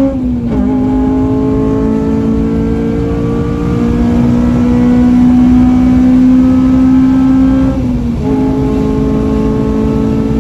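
Honda Civic Type R's four-cylinder engine pulling under hard acceleration, its pitch climbing slowly and steadily, with a quick upshift just after the start and another about 8 seconds in, each dropping the pitch before it climbs again; heard from inside the cabin.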